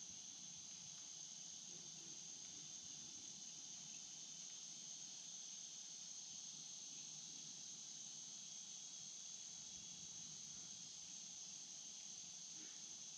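Faint, steady chorus of insects: an unbroken high trill that never pauses, over a faint low rush of the stream's flowing water.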